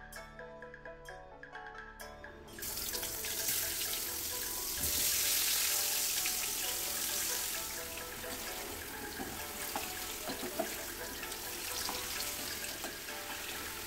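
Sliced potatoes frying in hot oil in a pan, a steady sizzle that starts suddenly about two and a half seconds in and is loudest a few seconds later, over background music.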